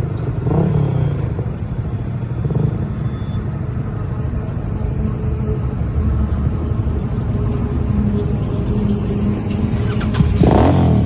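Motorcycle engine running under way with steady wind rush, swelling louder briefly near the end.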